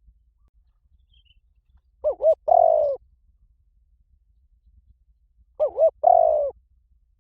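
Spotted dove cooing: two calls about three and a half seconds apart, each made of two short notes followed by a longer drawn-out coo.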